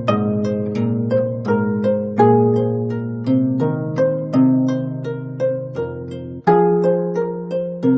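25-string gayageum played solo: a flowing stream of plucked notes over ringing low notes, several plucks a second. The sound drops away briefly about six and a half seconds in, then comes back with a strong plucked chord.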